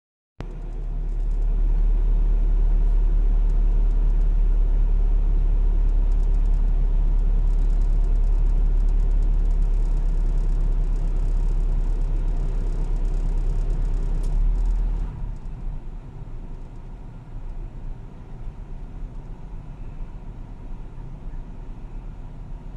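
Car engine idling, a steady low rumble that drops in level about fifteen seconds in and turns uneven.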